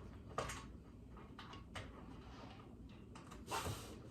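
Light clicks and taps as a PC case's metal back panel is fitted and aligned, with one brief scrape of the panel sliding about three and a half seconds in.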